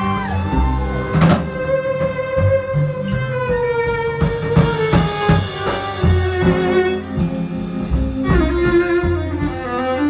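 Live band playing an instrumental passage between sung lines: a bowed violin carries sustained, gliding notes over changing bass notes and percussion.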